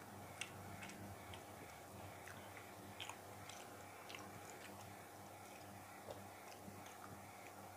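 Faint chewing of a mouthful of fried rice eaten by hand, with a dozen or so small, irregular mouth clicks and smacks over a steady low hum.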